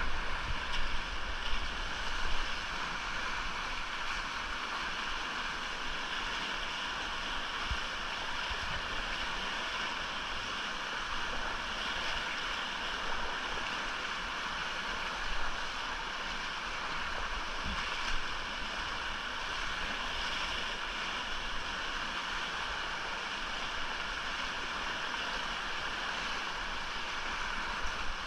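Whitewater creek rushing steadily, with some low rumbling bumps in the first couple of seconds.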